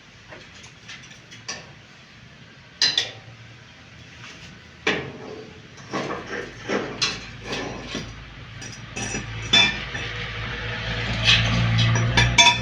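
Metal tools and hardware clinking and knocking in irregular, scattered strikes as a bed base is worked on, busier in the second half. A low hum builds up underneath toward the end.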